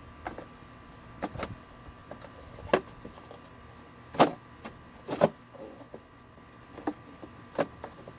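Plastic air filter housing being handled and fitted, giving a series of about seven sharp clicks and knocks at irregular intervals, the loudest near the middle.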